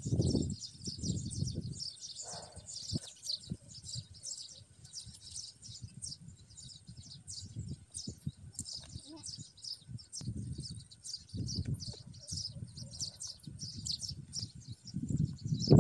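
Small birds chirping continuously in rapid, high-pitched calls, with intermittent low rumbles that come and go.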